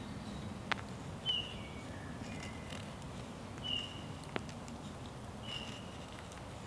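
A woodland bird calling three times, each call a short high note followed by a lower one, over a steady low background hiss, with a couple of faint clicks.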